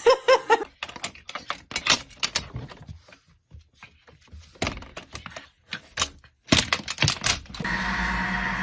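A rapid, irregular series of clicks and knocks, stopping and starting in clusters, with a short pitched cry at the very start and a steady hum taking over near the end.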